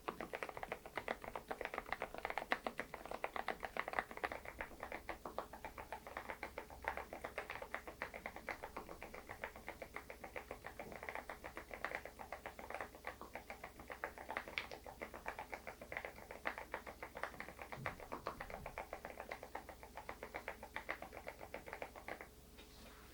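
Typing on an SPM PL108W full-size keyboard with lubed Moksae low-noise switches: a fast, continuous run of soft keystrokes that stops about a second before the end.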